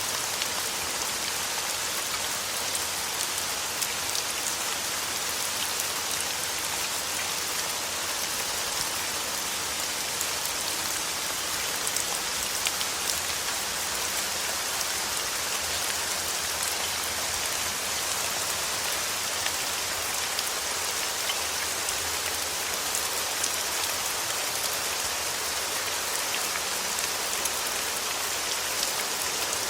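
Steady rain falling on a surface: an even hiss with faint scattered drop ticks, unchanging throughout.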